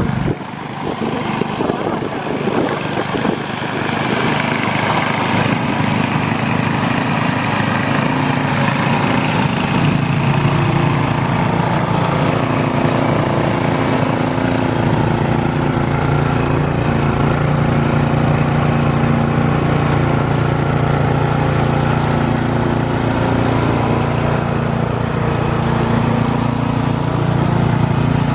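Snowblower's small gasoline engine running steadily, getting louder over the first few seconds and then holding an even pitch.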